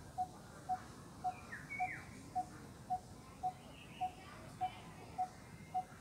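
A bird calling one short note over and over at an even pace, a little under twice a second, with a few higher falling chirps in between.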